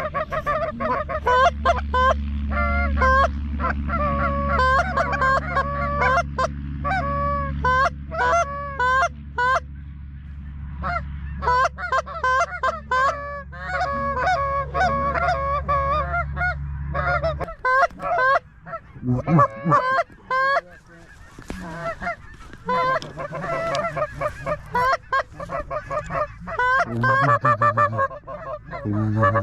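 A flock of geese honking continuously, many calls overlapping. A steady low hum runs underneath and cuts off suddenly about two-thirds of the way through.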